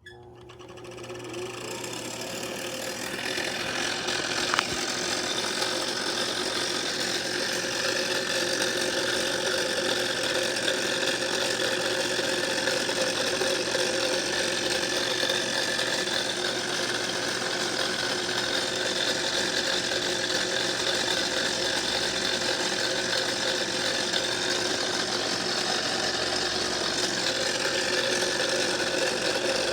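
A home-built lathe's motor starting up and spinning up over the first few seconds, then running steadily with a hum and whine. There is one sharp click about four and a half seconds in.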